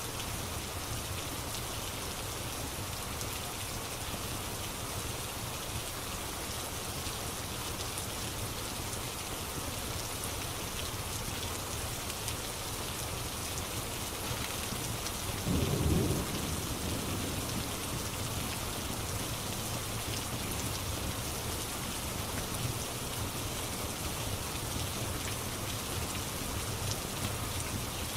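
Steady rain falling, with a brief low rumble of thunder about halfway through.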